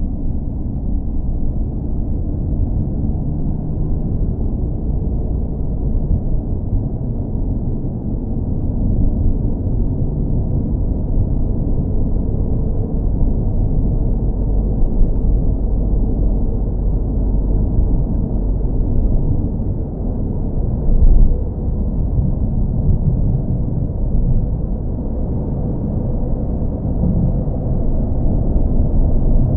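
Car engine running steadily, a deep, muffled rumble with no high end. A brief louder swell comes about two-thirds of the way through.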